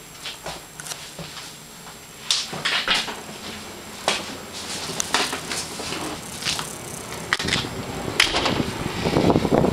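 Irregular clicks and knocks of handling and movement, with a louder rushing noise building near the end.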